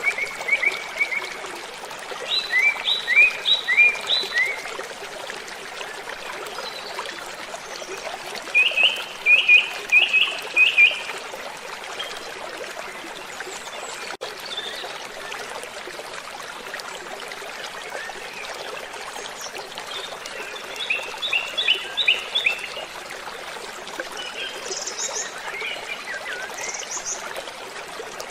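Steady rush of falling water from a waterfall, with birdsong over it: four phrases of quick repeated chirping notes, each lasting a second or two, then a couple of short, higher calls near the end.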